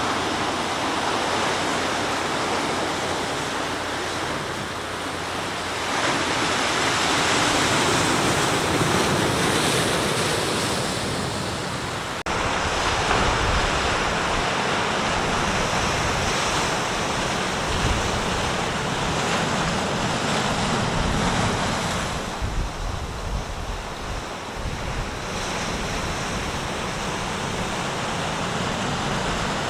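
Sea waves breaking and washing up the shore, swelling and ebbing in long surges, with wind rumbling on the microphone.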